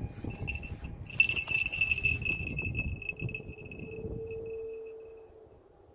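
A small metal bell on a goshawk jingles faintly, then rings out sharply about a second in and fades away over the next few seconds, over soft scuffling.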